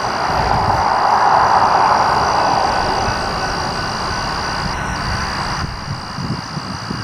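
Low rumble of a diesel-hauled freight train approaching in the distance, under a swell of hiss that peaks about one to two seconds in and fades out, with a steady high whine throughout.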